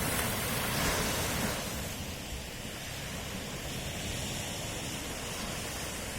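Ocean waves washing on the shore, a steady rush of surf that swells in the first second or so and then settles to a softer wash.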